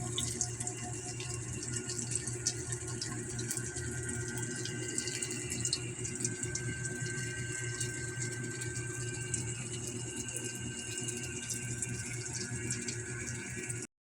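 Food frying in hot oil: a steady sizzle with fine crackles, over a low steady hum.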